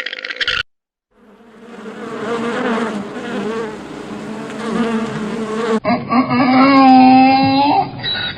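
Bees buzzing in a steady, swelling drone for about four seconds. The buzzing cuts off abruptly and is followed by a louder, held animal call with a bending pitch.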